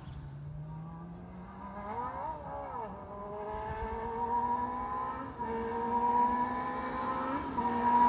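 Kawasaki ZX-25R 250 cc inline-four running through its stock muffler gutted into a full straight-through pipe, both the pre-chamber and silencer emptied. The engine note climbs steadily in pitch and grows louder, with a brief rise and fall about two seconds in and two small dips later on.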